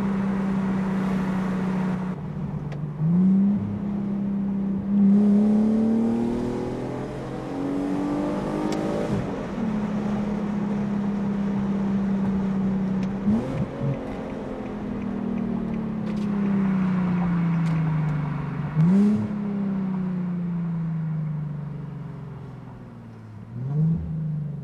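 Infiniti G sedan's VQ V6 through a custom exhaust, running under way. It holds a steady pitch for long stretches, with about five quick rises in revs that each slide slowly back down.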